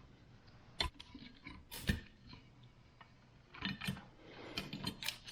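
Sharp clicks and light knocks of small parts and tools being handled while a switch is taken off a portable air compressor: two single clicks, then a quick run of several near the end.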